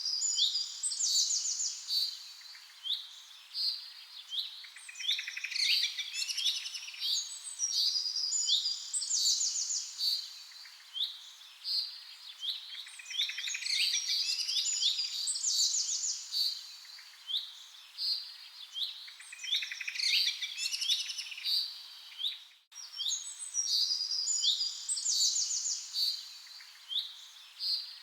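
Several songbirds chirping and twittering: many short, high, downward-sliding chirps overlapping with quick rapid-fire trills. There is a brief break in the sound about three-quarters of the way through.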